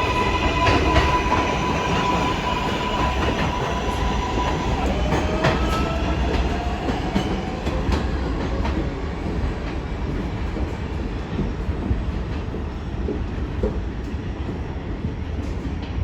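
R188 subway train pulling out of the station: a steady electric whine from the propulsion that stops about five seconds in, then a rising whine as it gathers speed, over wheel and rail rumble that slowly fades.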